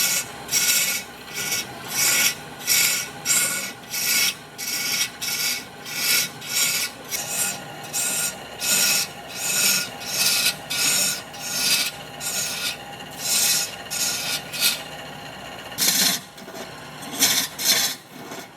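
Rasp or file scraping across wood in quick, regular strokes, about one and a half to two a second, with a brief pause near the end before the strokes resume.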